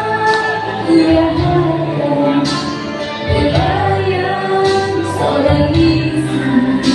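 Live music: a woman singing with instrumental backing under a sustained bass line.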